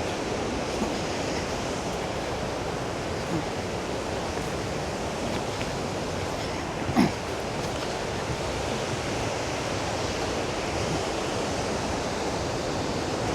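Sgwd yr Eira waterfall roaring, a steady rush of falling water, running high after rain. One brief louder sound about halfway through.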